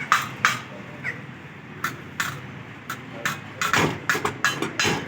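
A run of sharp knocks and taps at irregular intervals, coming thick and fast near the end.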